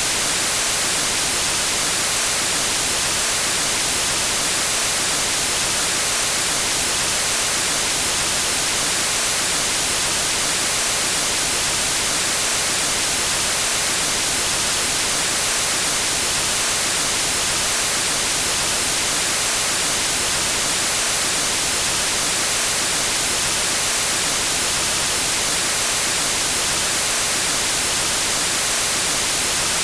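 Steady white-noise static hiss like an untuned TV, even and unchanging, strongest in the treble.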